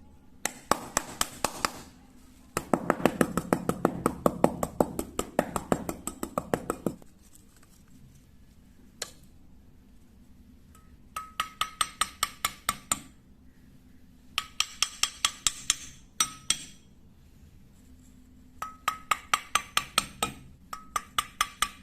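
Rapid sharp knocks on wood, about six a second, in several runs of one to four seconds with short pauses between.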